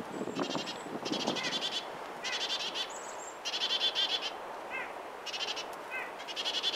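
Small birds calling in repeated quick rattling series, roughly one burst a second, with a few short sliding chirps between them.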